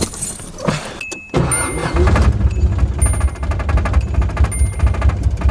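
1986 Nissan 300ZX's V6 engine catching about a second and a half in, then idling with a fast, loud low pulse while its fuel pump runs on a temporary wire jumper. A short high electronic beep repeats about once a second.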